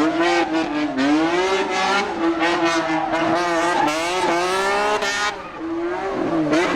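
Race car engine held at high revs while drifting, its high note wavering up and down, with tyre squeal. It drops back briefly near the end before picking up again.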